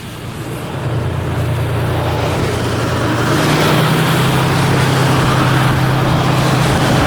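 JR Freight DF200 diesel-electric locomotive's engine running with a steady low drone, growing louder for the first few seconds and then holding steady; its pitch steps up slightly about three seconds in.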